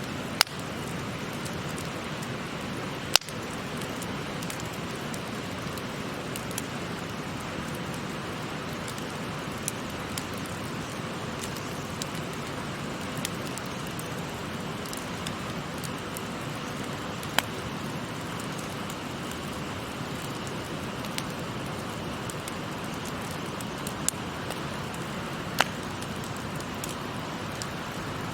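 Wood fire crackling, with a handful of sharp loud pops and many faint ticks, over the steady rushing murmur of a shallow river.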